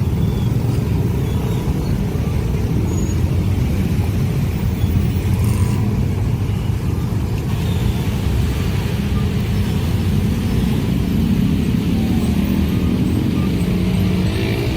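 Train passing a level crossing, a steady low rumble with a faint engine hum rising in the last few seconds.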